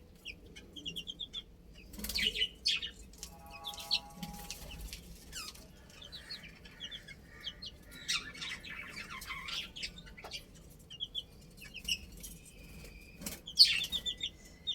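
Chicks peeping in quick runs of short high chirps, with several bursts of wing flapping and rustling, the loudest near the end. A lower, drawn-out bird call sounds about three seconds in.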